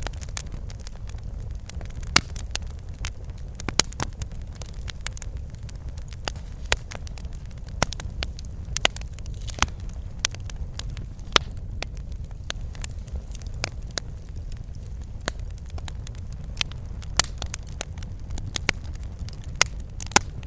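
Fireplace fire crackling: irregular sharp pops and snaps, several a second, a few of them louder, over a steady low rumble of burning.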